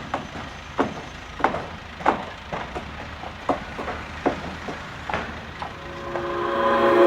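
Construction site sounds: irregular sharp knocks and bangs, like hammering, over a steady low rumble. Music fades in near the end.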